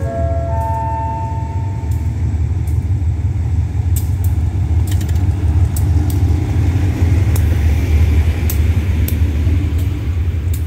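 A State Railway of Thailand diesel locomotive rolling slowly along the platform with its passenger train: a steady low engine rumble, with the wheels clicking over the rail joints from about four seconds in as the coaches pass. A brief run of rising tones sounds right at the start.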